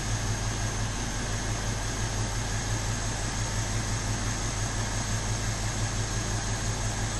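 BMW X5 4.8is's 4.8-litre V8 idling steadily: an even low hum with a slight regular pulse under a background hiss.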